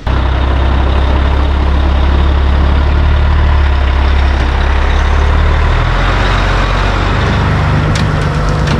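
Diesel semi truck engine running loud and steady, its note stepping up about six seconds in and again a little later as the engine picks up speed.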